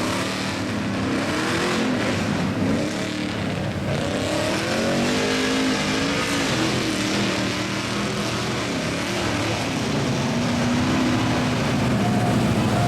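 Big-engined mud truck running hard, its engine revving up and falling back again and again over a steady rumble.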